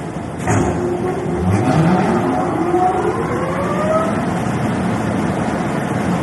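Paint spray booth blower fans starting up after being switched on. A knock about half a second in, then a motor hum that rises steadily in pitch over a couple of seconds and settles into a steady rush of air.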